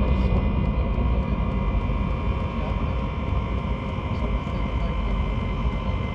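Diesel air heater running: a steady jet-engine-like noise with a deep rumble and several steady whining tones over it, with faint regular ticks.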